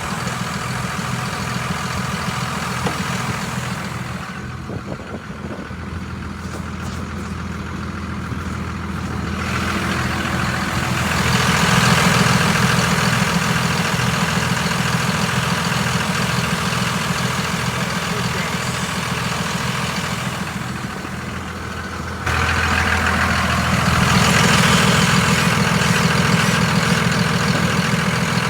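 The 5.9-litre turbocharged diesel six of a 1976 Dodge W600 Power Wagon tow truck running steadily. It grows louder about ten seconds in and again suddenly about 22 seconds in.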